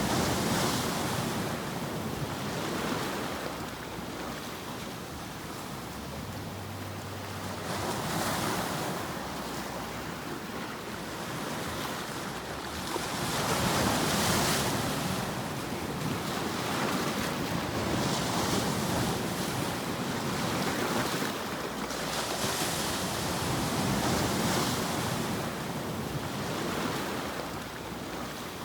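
Ocean surf: a steady rushing noise that swells and fades every few seconds as waves wash in.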